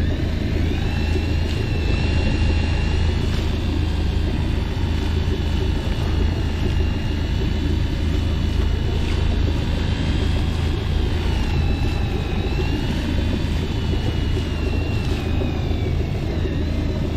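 Fishing boat's engine running steadily with a strong low hum, overlaid by a thin high whine that slowly wavers up and down in pitch.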